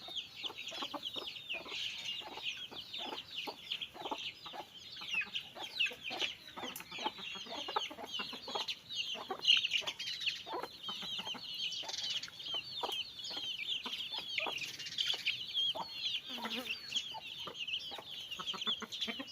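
Chickens clucking, with a dense run of quick, high chirps going on without a break.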